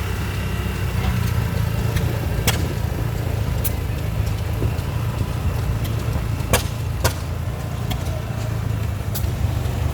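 A steady low engine hum, with a few sharp clicks at irregular moments.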